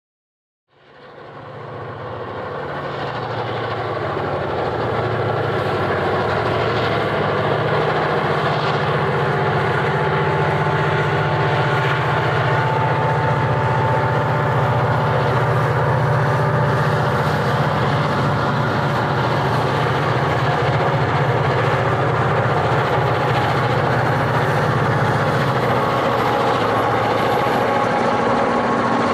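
EMD two-stroke diesel locomotives working hard under load, a loud steady throbbing engine sound with a thin steady whine above it, fading in over the first few seconds.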